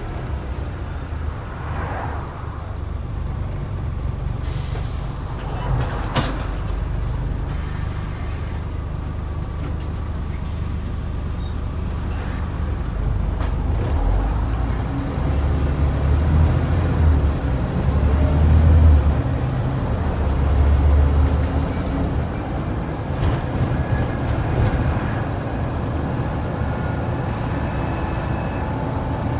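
Scania N94UD double-decker bus's DC09 five-cylinder diesel engine running while the bus is under way, pulling harder and louder for several seconds past the middle. Short hisses of compressed air from the air brakes come several times.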